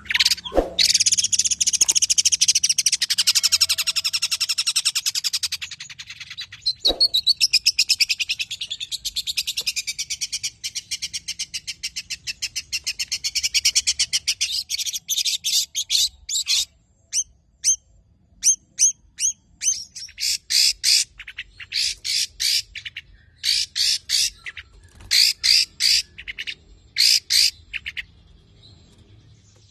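Long-tailed shrike (cendet) singing, with long runs of very rapidly repeated high notes in the first half, then shorter separate bursts of notes, falling quiet near the end.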